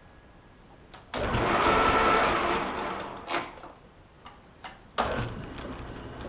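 Metal lathe switched on at fast speed: motor and gear whine start suddenly about a second in, then die away over the next couple of seconds. After a few sharp clicks the lathe starts again near the end and keeps running more quietly.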